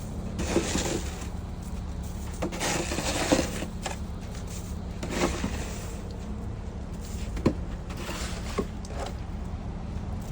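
Wet, slushy snow being disturbed outdoors: irregular crunching and scraping noises every second or two, over a steady low hum.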